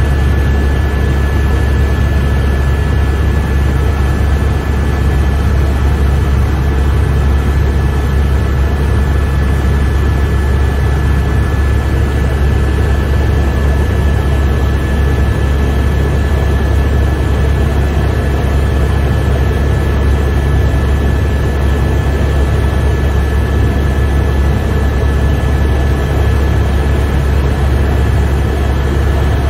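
Helicopter cabin noise in flight: a loud, steady drone of rotor and engine, low rumble with a thin steady high whine over it.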